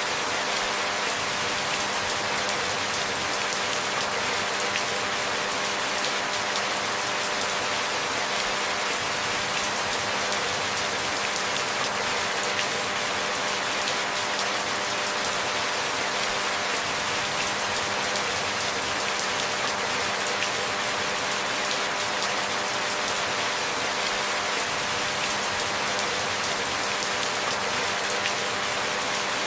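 Steady rainfall, an even hiss that holds without sudden changes.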